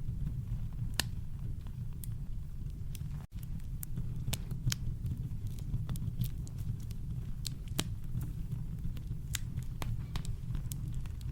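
Campfire crackling: sharp, irregular pops and snaps over a steady deep rumble of brown noise. The sound drops out for an instant about a third of the way in.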